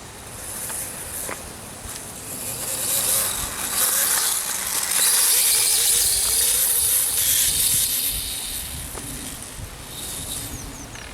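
Electric RC dirt bike running past, a high motor whine and tyre hiss swelling to a peak about five seconds in and then fading.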